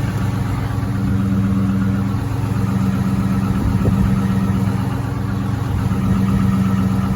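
Chrysler 300 with a muffler delete idling steadily soon after a cold start, a loud, even exhaust drone.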